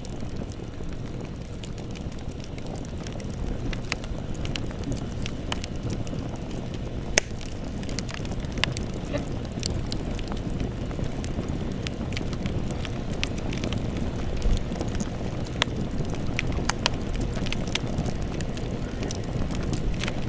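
Campfire burning with a steady low rumble and scattered crackles and pops of burning wood, one sharper pop about seven seconds in.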